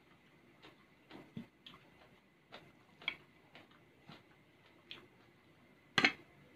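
Close-up eating of raw beef larb: chewing with small soft mouth clicks, one or two a second. There is one much louder click about six seconds in.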